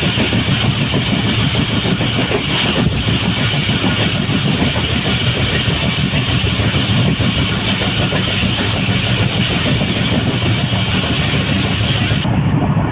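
Passenger train running at speed, heard from aboard: a steady, loud rumble of wheels on the rails.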